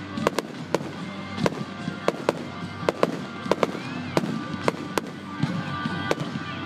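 Fireworks display: aerial shells bursting in an irregular run of sharp bangs and pops, roughly two a second.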